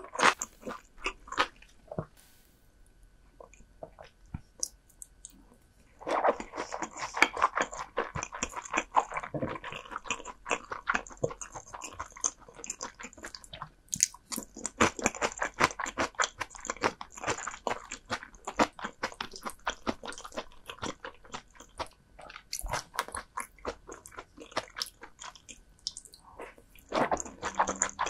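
A person chewing and biting crunchy food close to the microphone. A few crisp bites come first, then a quieter few seconds, then dense, steady crunching from about six seconds in.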